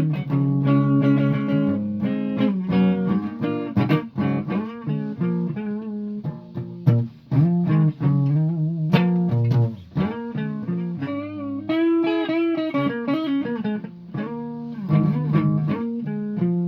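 Solo guitar played as a run of plucked single notes and chords. A note is held and bent with a wavering pitch about twelve seconds in.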